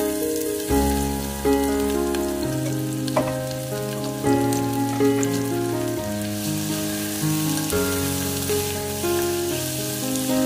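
Food sizzling as it fries in hot oil, a steady hiss, with background music of held notes and a bass line playing over it.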